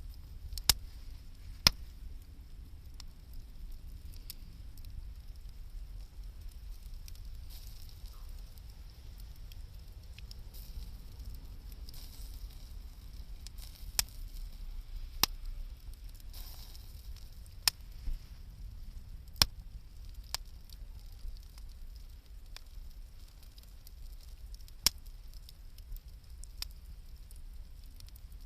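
Wood campfire burning with a soft steady crackle, broken every few seconds by sharp single pops from the burning wood.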